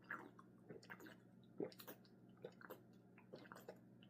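Faint, soft wet clicks of someone drinking water, gulping and swallowing, irregularly spaced across a few seconds.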